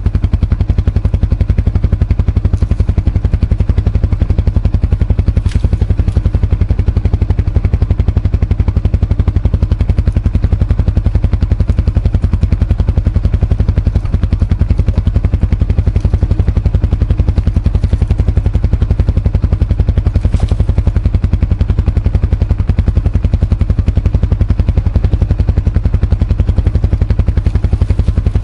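Kawasaki ATV engine running at a steady, even speed, a loud low rapid pulsing with no revving, with a few faint clicks over it.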